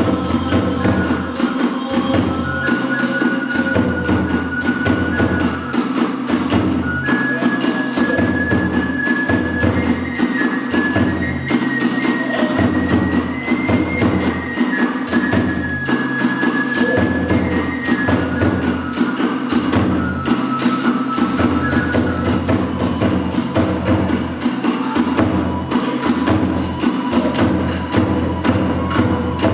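Hiroshima kagura accompaniment: a bamboo flute plays held notes that step up and down in pitch over a steady pounding drum and continuous clashing of small hand cymbals.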